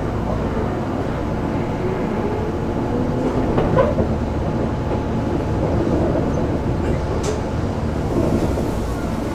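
Keisei 3400 series electric train heard from inside a car while it runs: a steady running sound of wheels on rail, with a few sharp clicks about three and a half seconds in and a brief high squeak about seven seconds in.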